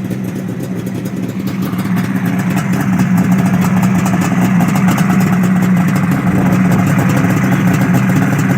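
1972 Suzuki GT750's water-cooled three-cylinder two-stroke engine idling steadily on its first start after a fresh rebuild, getting a little louder over the first few seconds.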